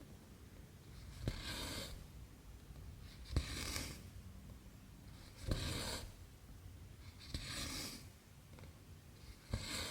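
Cross stitching by hand: the needle ticks through the fabric and the cotton thread is drawn through with a short swish. This happens five times, about every two seconds.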